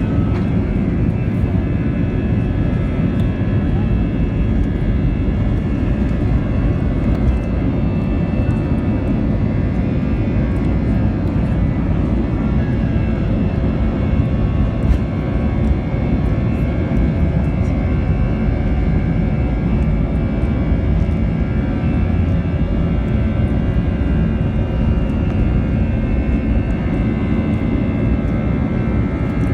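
Airbus A320's twin jet engines running at take-off thrust, heard from inside the passenger cabin: a steady, loud rumble with a steady high whine over it.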